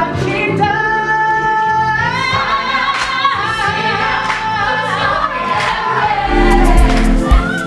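A group of voices singing together in harmony, holding long notes, over musical accompaniment.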